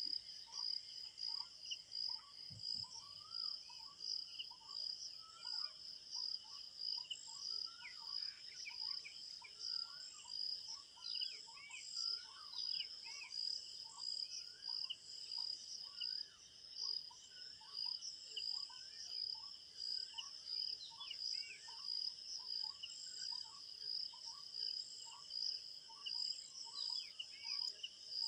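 Crickets chirping in a steady, high, rapidly pulsing chorus, with a lower short chirp repeating about once a second and scattered bird calls, mostly in the middle of the stretch.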